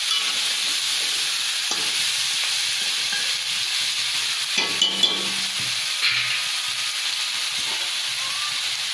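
Turkey meat with onion and tomato sizzling steadily as it is stir-fried in a pan. There are a few sharp clicks about halfway through.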